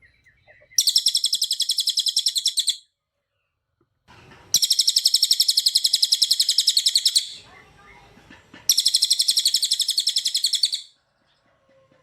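Cililin songbird singing three rapid-fire trills of quickly repeated high notes. Each trill lasts two to three seconds, with short pauses between them.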